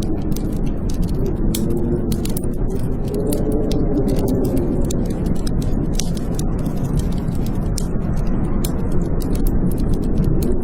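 Blizzard wind howling, its pitch wavering up and down, over a steady rush, with a wood fire crackling: many sharp pops and snaps throughout.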